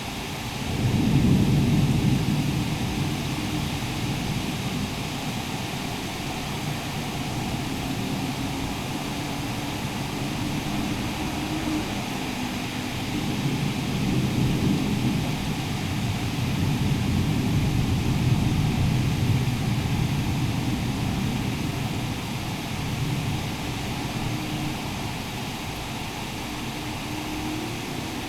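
Thunderstorm: a steady hiss of heavy rain, with deep low rumbles swelling and fading several times, strongest about a second in and again past the middle.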